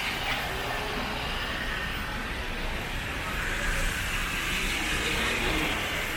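Steady road-traffic noise, swelling in the second half as a vehicle passes.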